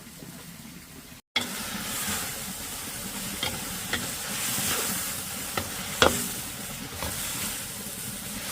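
Food sizzling and frying in a hot pan, stirred with a few sharp knocks of a utensil against the pan. It starts just over a second in, after a quieter hiss.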